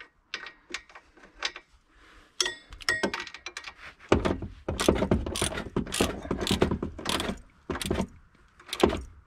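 Hand tools working on metal engine parts: a run of short, irregular clicks, clinks and knocks. There is a quick series of ticks about two and a half seconds in, and the knocks come thicker and heavier from about four seconds in.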